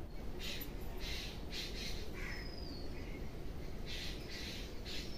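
Birds giving repeated short, harsh, raspy calls, with a brief falling whistle from another bird twice, over a steady low rumble.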